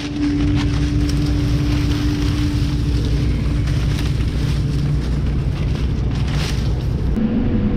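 Combine harvester running steadily, a low engine hum under a crackling hiss of rain.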